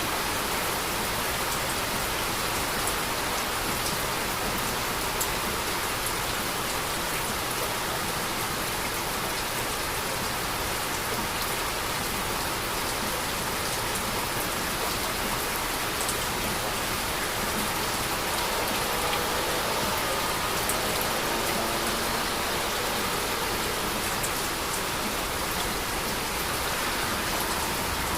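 Heavy rain falling steadily: an even hiss of rain with scattered drops pattering on a surface.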